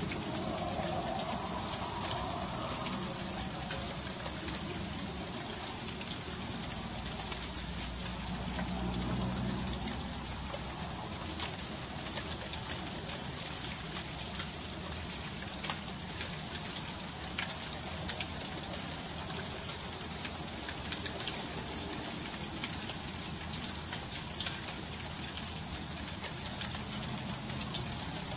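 Freezing rain falling during an ice storm: a steady hiss of ice pellets and drops striking hard, iced-over surfaces, made of many fine ticks.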